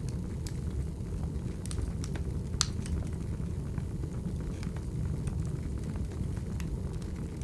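Burning firewood crackling: a steady low rumble of the fire with scattered sharp pops, one louder pop about two and a half seconds in.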